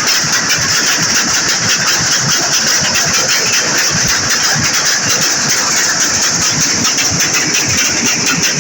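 A vehicle engine running steadily and loudly, with an uneven low pulsing.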